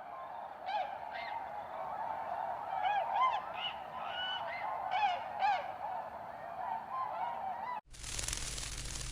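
A flock of domestic geese honking, many overlapping calls, fading in at the start. About eight seconds in the calls cut off abruptly and a steady harsh noise begins.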